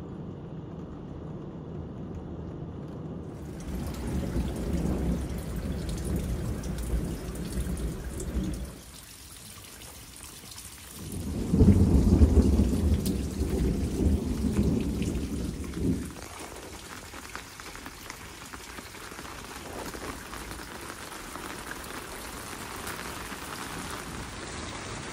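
Heavy rain falling with thunder rumbling: a long low rumble over the first eight seconds or so, a louder peal of thunder starting about eleven seconds in and rolling for some five seconds, then steady rain hiss.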